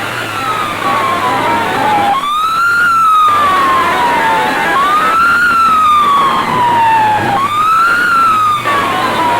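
Siren sound effect played loud through a DJ sound system: a wailing tone that rises quickly and then slides slowly down, repeating about every two and a half seconds over a low bass hum, with a hiss that swells in at each rise.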